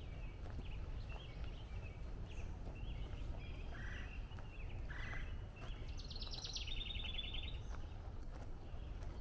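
Several wild songbirds calling in woodland: scattered faint high chirps, two short notes a few seconds in, and a fast trill of quick repeated notes past the middle that drops in pitch partway through. A low steady rumble runs underneath.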